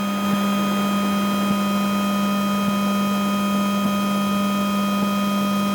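Steady electric hum from the Skoda Enyaq RS Race electric race car's systems while it waits to set off, with a strong low tone and several higher fixed tones and a few faint clicks.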